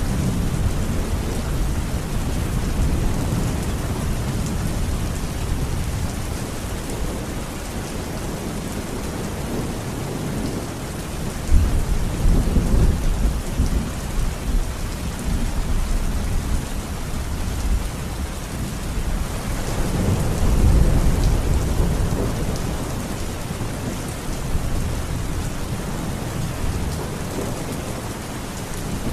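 Heavy rain falling steadily in a thunderstorm, with thunder rumbling low: one rumble breaks in suddenly about a third of the way through, and a longer one swells about two-thirds through.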